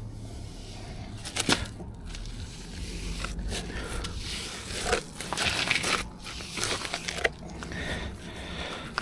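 Irregular scraping and crunching from hand work, with a sharp knock about a second and a half in and a few more later.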